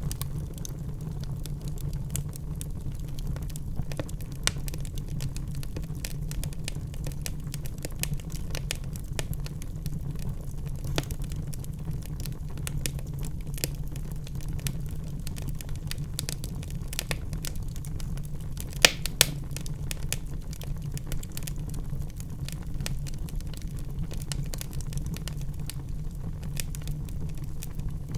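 Wood fire crackling in a fireplace: a scatter of small snaps and pops over a steady low hum, with two sharper pops a little after the middle.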